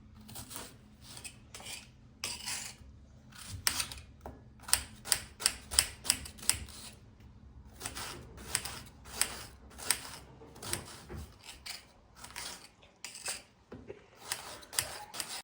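Irregular run of light, sharp clicks and clinks of hard objects being handled, several a second at times, over a faint low hum.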